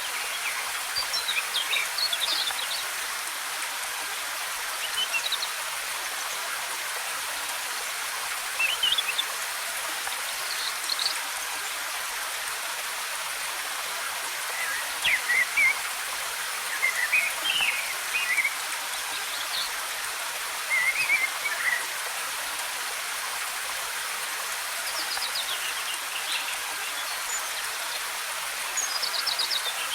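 Steady rush of falling water from a waterfall, with birds chirping in short bursts of quick, high calls every few seconds over it.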